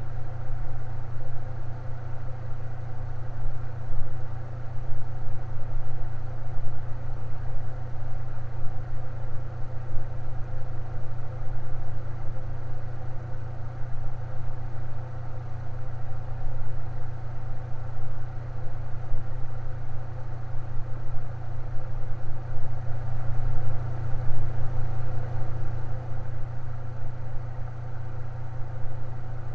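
Electric fan running steadily: a strong low hum with fainter steady tones and an even whir above it, unchanging throughout.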